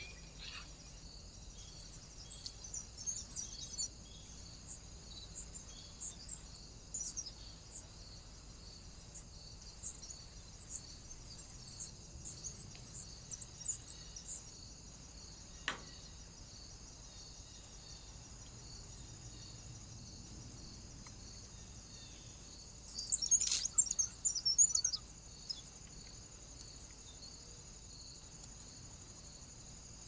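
Wild birds chirping in short scattered bursts, with a louder flurry of chirps about three-quarters of the way in, over a steady high pulsing insect trill. A single sharp click about halfway through.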